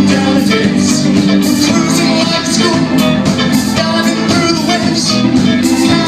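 A live band playing a song loudly, with a steady drum beat.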